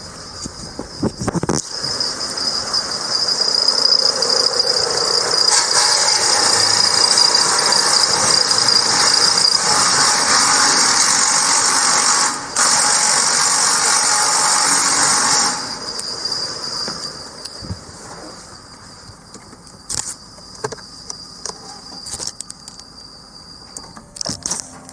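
Lexus LS460's 1UR-FSE V8 engine running and revved: the sound builds over a couple of seconds, holds at a high steady rev with a high whine for about twelve seconds with one brief dip, then drops suddenly back to a quieter idle with a few clicks.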